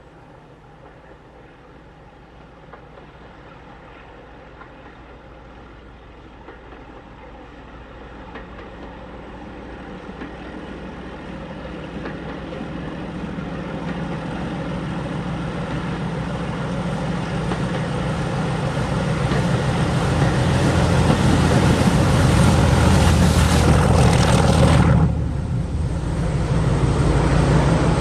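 A train approaching, its steady engine note growing louder over about twenty-five seconds; near the end the sound drops abruptly and then carries on.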